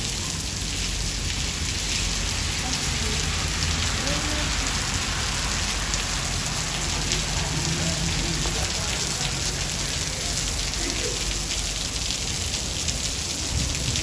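Steady heavy rain falling on a surface, a dense even patter of drops with a low steady rumble underneath, and no thunderclap.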